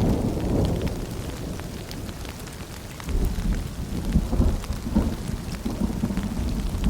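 Steady rain falling, with a low rumble of distant thunder that eases off and then swells again about three seconds in.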